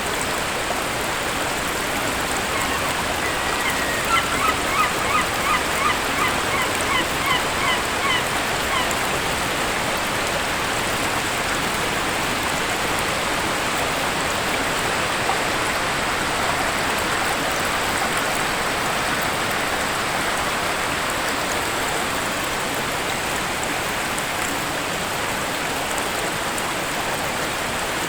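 Waterfall: a steady rush of falling water. A few seconds in, a bird gives a run of about a dozen short repeated calls, two or three a second, lasting about six seconds.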